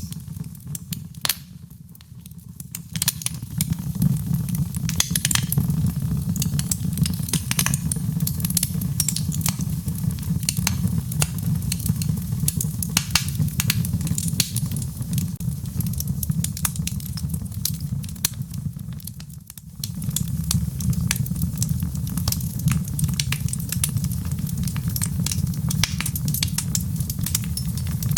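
Wood fire burning in a fireplace: a steady low rumble with frequent sharp crackles and pops. It briefly fades twice, once near the start and again about two-thirds of the way through.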